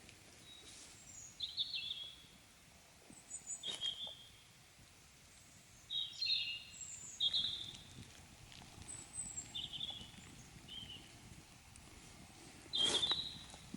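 Small songbirds calling in short high chirping phrases every second or two, with brief pauses between, over faint outdoor background noise.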